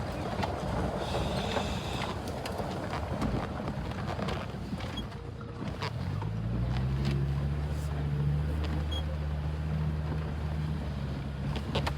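Truck driving along a road: steady road rumble and scattered rattles and clicks. About halfway through, an engine hum settles into a steady low pitch.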